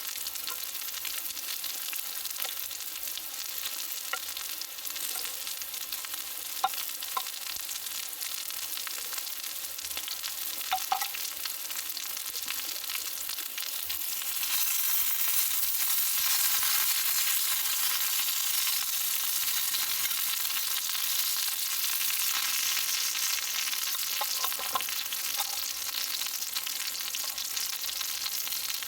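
Food sizzling in a small iron frying pan over a campfire stand: a steady hiss that grows louder about halfway through, with a few light clicks of utensils against the pan.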